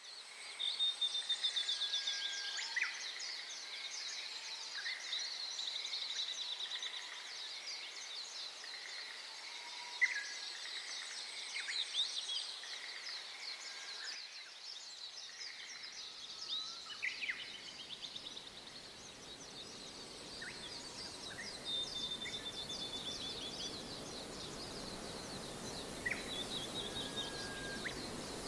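Many birds chirping and calling over one another, in short, quickly repeated notes and trills. From about halfway through, a low, even hiss rises underneath them.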